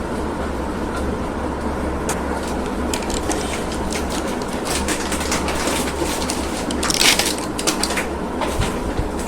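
Plastic packaging crinkling and crackling as it is handled, in many irregular small clicks that grow denser in the second half, loudest about seven seconds in. A steady low hum runs underneath.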